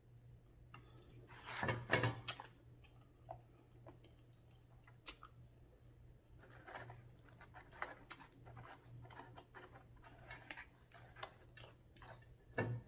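Close-up eating sounds: chewing with scattered small clicks and mouth smacks, and a louder burst about two seconds in, over a low steady hum.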